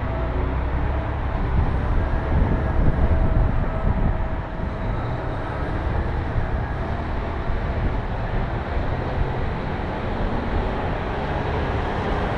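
Caterpillar 740B articulated dump truck's diesel engine running with a steady low rumble.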